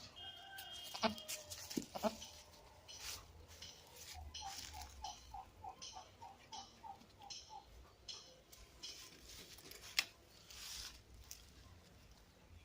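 A bird calling in the farmyard: a quick run of about a dozen short notes, three or four a second, with a few scattered knocks.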